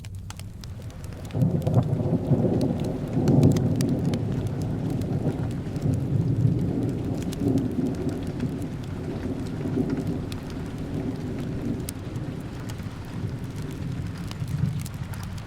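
A roll of thunder over steady rain: a low rumble sets in about a second in, is loudest a few seconds later, then slowly dies away. Small crackles of a wood fire tick throughout.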